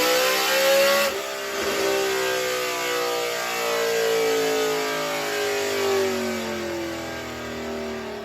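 Whipple-supercharged LS3 V8 in a Chevy SS sedan under throttle, its exhaust note rising in pitch. About a second in the pitch drops sharply, then the engine note falls slowly and steadily as the car eases off.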